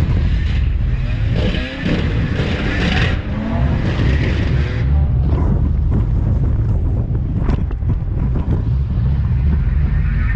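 Supercharged V8 drift car engine running hard under load, its note rising and falling, with tyre and wind noise over it.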